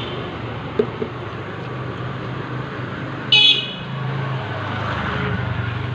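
Traffic noise with a steady low engine hum, and one short high-pitched vehicle horn toot about halfway through.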